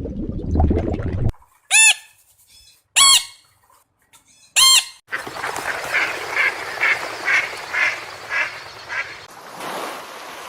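A low, noisy sound cuts off about a second in, then a bird gives three loud, separate calls, each a single arched note. These are followed by a run of about eight shorter calls, roughly three a second, over a steady noisy background.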